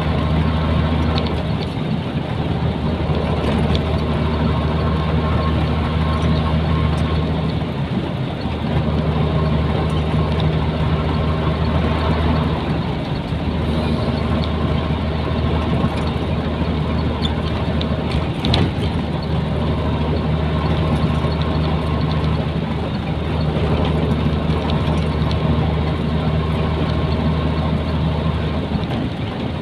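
Nissan Diesel container truck's diesel engine running steadily on the road, a low drone with road noise, briefly dropping away twice partway through.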